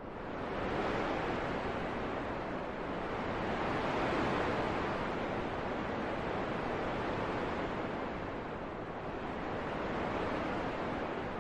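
Wind blowing as a steady rush that swells and eases slowly, with the strongest gusts about four and ten seconds in.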